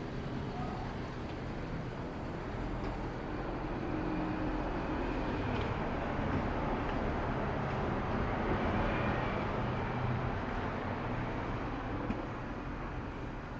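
Outdoor street noise with wind buffeting the microphone, swelling through the middle and easing off near the end.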